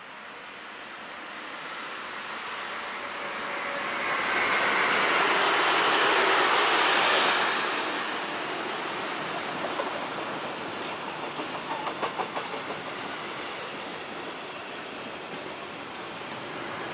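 A train passing on the main line: its rumble builds to a peak about four to seven seconds in, then the wagons roll by with a rhythmic clatter of wheels over rail joints near the middle.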